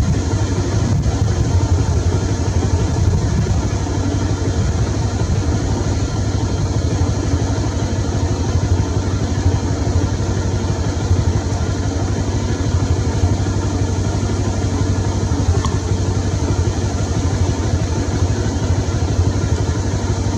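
An engine idling steadily, a low even drone that does not change.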